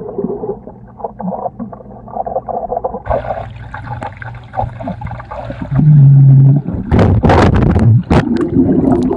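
Muffled water sound heard through a phone held underwater in a swimming pool: gurgling and bubbling, then loud irregular splashing bursts over the last couple of seconds.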